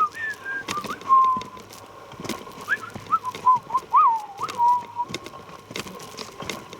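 A run of short whistled notes gliding up and down for about five seconds, then stopping, with footsteps crunching on the forest trail throughout.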